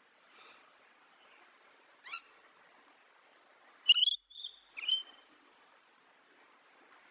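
A bird calling: a faint call near the start, one short sharp call about two seconds in, then three loud high-pitched calls in quick succession around four to five seconds, over a faint steady hiss.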